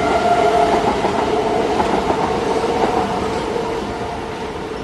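Train running on the rails, its sound slowly fading away.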